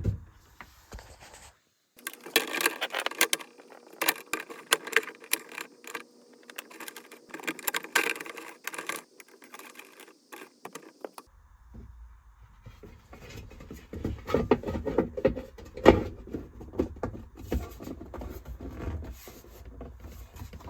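Irregular clicks, taps and light scrapes of small hard parts being handled, with duller, lower knocks and rubbing joining about halfway through.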